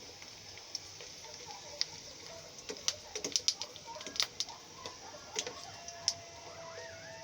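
Papad frying in hot ghee: irregular sharp crackles and pops, thickest in the middle, over a steady sizzle.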